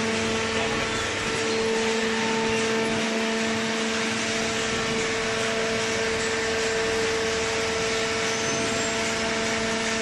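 Hydraulic baler's power unit running: a steady, unchanging hum over an even hiss.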